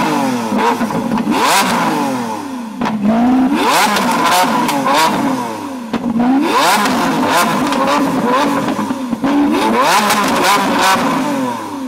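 Lamborghini Aventador's V12 being blipped hard and repeatedly, the engine note rising and falling about every couple of seconds, with crackles and pops from the exhaust as the revs drop.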